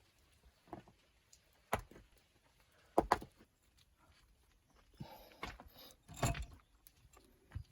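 Irregular knocks and short scrapes of hand tools working earth and stone. There are about half a dozen, loudest about three seconds in and again about six seconds in.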